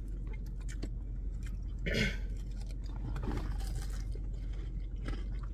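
Close chewing of a crispy deep-fried potato-coated Korean corn dog: a run of small crackling crunches from the fried batter, with a brief voiced 'mm' about two seconds in.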